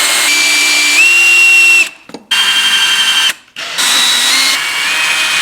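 Power drill running in three trigger pulls. Each is a steady whine that steps up in pitch while running and stops abruptly.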